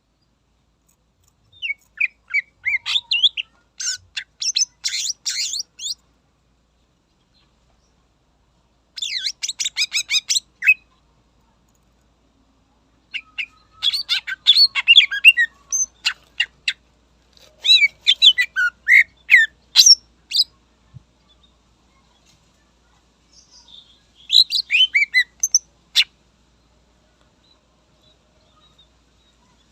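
Greater green leafbird (cucak ijo) singing: about five bursts of rapid, high chirping and whistled notes, each one to four seconds long, separated by silent gaps.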